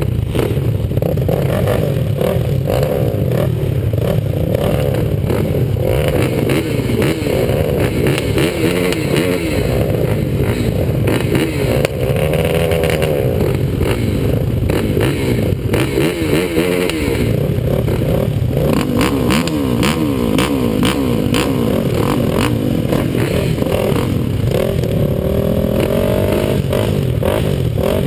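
ATV engines racing on a motocross track, the pitch rising and falling over and over as the throttle is opened and closed, with rattling and knocks throughout.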